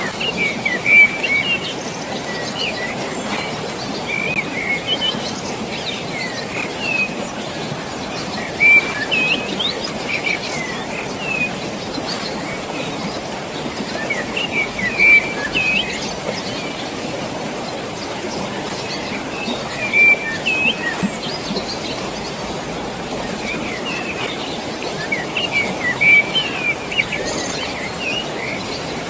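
Small birds chirping and twittering in short clusters every few seconds over a steady rush of flowing water.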